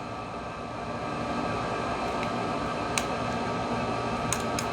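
Steady hum of a room fan or air conditioner, with a few light clicks about two, three and four and a half seconds in.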